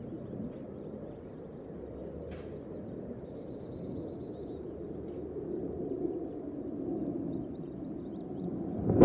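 Low, steady rumble of a distant F-35 jet, swelling slightly in the second half, under a thin steady high whine, with a few short bird chirps near the end.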